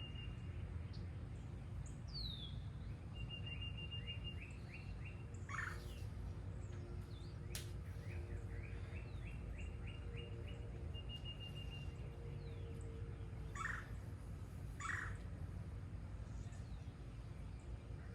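Several wild birds singing and calling: short high trills repeated every few seconds, runs of quick chirps and a few falling whistles, with three louder short calls in the middle and later part. A steady low rumble of outdoor background noise lies underneath.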